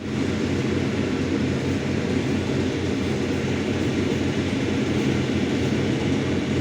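A steady low engine rumble, unchanging throughout, with no breaks or separate events.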